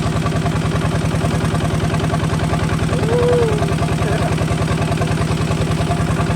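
Kubota RT 140 DI single-cylinder diesel engine running steadily with a rapid, even chugging beat.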